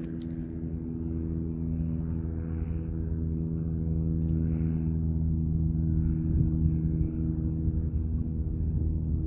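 Low, steady drone of an aircraft's engines, made of several steady tones, slowly growing louder as the plane comes closer.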